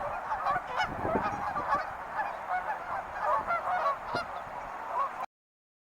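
A flock of birds calling, with many short calls overlapping in a dense, continuous chatter. The sound cuts off abruptly near the end.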